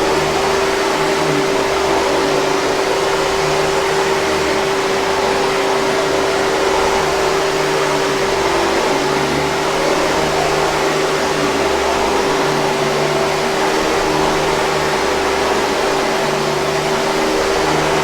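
Hoover 5000 Series canister vacuum cleaner's motor running steadily, a constant rushing hum with a steady whine held throughout.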